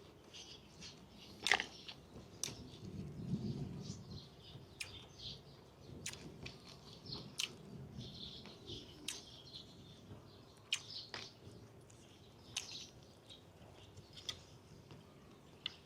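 A person chewing chicken close to the microphone, with scattered wet lip-smacks and mouth clicks.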